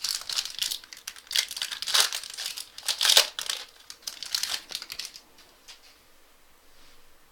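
Foil trading-card pack being torn open and crinkled by hand, with loud crackles around two and three seconds in. It stops about five seconds in.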